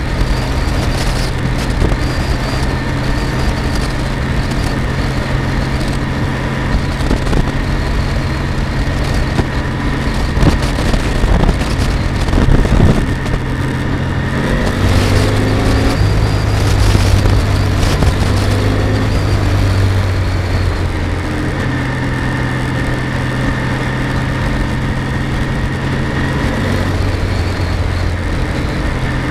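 Kawasaki W650's air-cooled parallel-twin engine running under way at a steady pace, picked up by a camera mounted on the bike. About halfway through, the engine note drops for several seconds, then comes back up.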